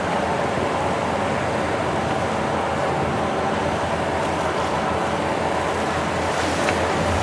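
A boat's engine running steadily, with wind and water noise.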